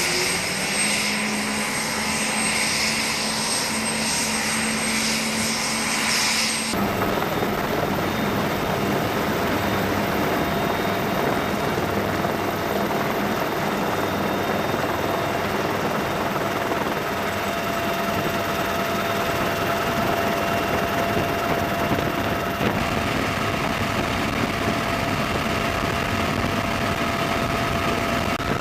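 Military helicopter running, a steady turbine and rotor noise. The sound changes abruptly about seven seconds in and again near the end, as it cuts between recordings.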